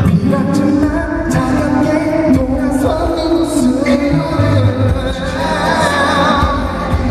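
Live pop music: a male singer's vocal over the band and backing music, heard as a concert recording.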